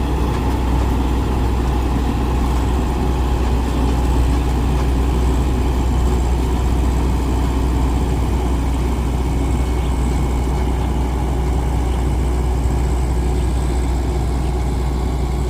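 Rice combine harvester running steadily: a constant low engine hum with steady machine tones above it, unchanging throughout.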